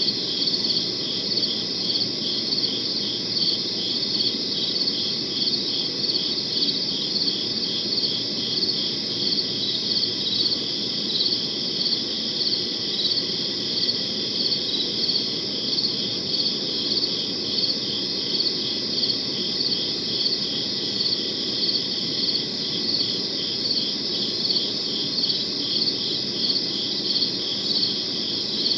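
Crickets chirping steadily, several pulsed chirps a second, high-pitched over a soft low hiss.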